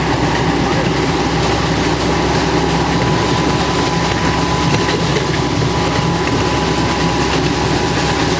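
Miniature park ride train running steadily along its track, heard from aboard: a constant mix of engine hum and rolling rail noise.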